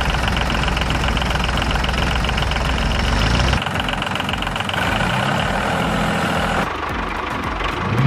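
Tractor engine running at idle with a steady knocking beat; its tone changes abruptly twice.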